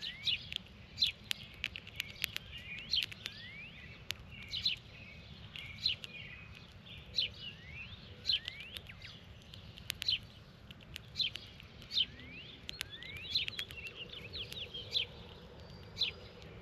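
Birds calling repeatedly: short sharp chips mixed with quick rising whistles, one or two a second, over faint low background rumble.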